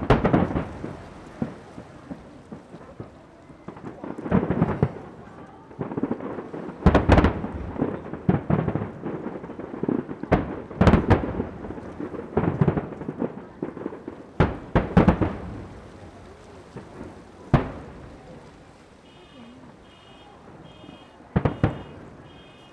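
Fireworks display: aerial shells bursting in a long irregular series of deep booms, each trailing off in an echo, with crackling between them and bunches of bursts in the middle.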